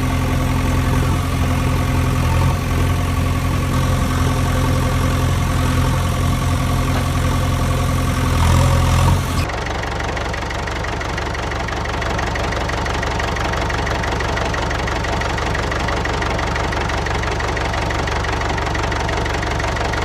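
An engine running steadily. About nine seconds in it cuts abruptly to a different, slightly quieter steady engine sound.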